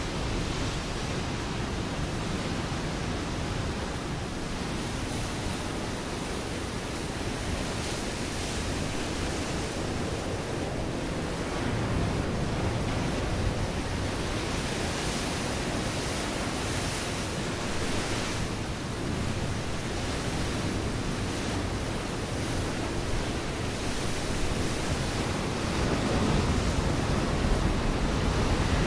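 Ocean waves breaking on a rocky shore: a continuous wash of surf that swells louder about twelve seconds in and again near the end, with some wind on the microphone.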